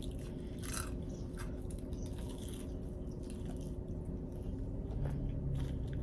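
Close-miked chewing of crunchy breaded fried chicken tenders, with scattered crisp crunches.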